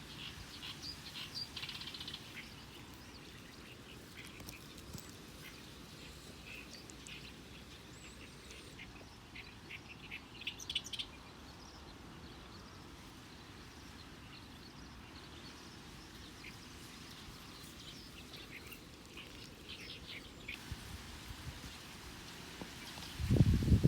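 Birds calling in scattered short runs of chirps over a steady low outdoor background, with one loud low thump near the end.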